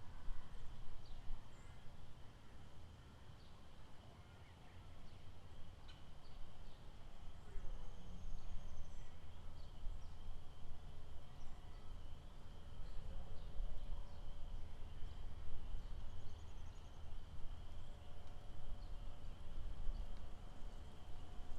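Lakeside outdoor ambience: a steady high-pitched chorus of animal calls with scattered short chirps and calls over a low rumble.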